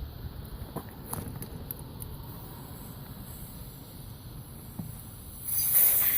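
Low steady rumble with a few light knocks, then about five and a half seconds in a loud hissing blast of air starts suddenly: a blower forcing the rinse water out of a washed EVAP charcoal canister.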